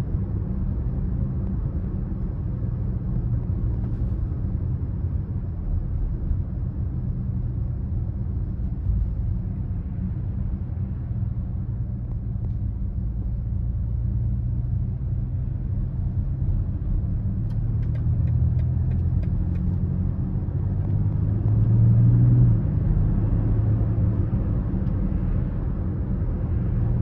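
BMW X5 30d's three-litre straight-six diesel engine running on the move, a low rumble with road noise. It swells from about two-thirds of the way in, is loudest a little later, and then eases off slightly. A few faint clicks sound during the swell.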